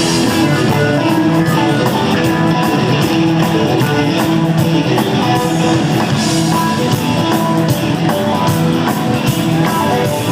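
Live rock band playing the instrumental introduction to a song, guitar to the fore, over a steady beat.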